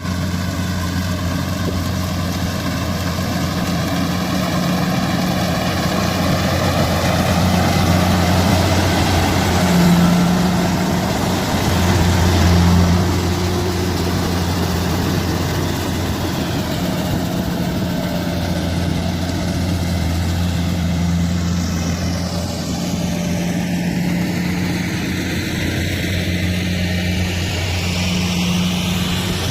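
Kubota rice combine harvester's diesel engine running steadily under working noise, a continuous low drone that swells briefly about ten and twelve seconds in.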